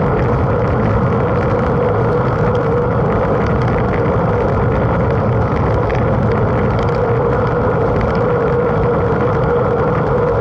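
Steady rushing rumble of a mountain bike ridden at race pace: wind and tyre noise on the bike-mounted camera, with a steady hum running through it.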